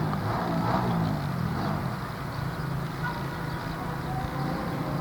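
Boeing 777 jet engines running at takeoff power: a steady low rumble with faint steady whining tones above it.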